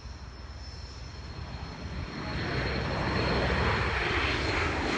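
Airplane departing, its engine noise swelling steadily louder from about two seconds in.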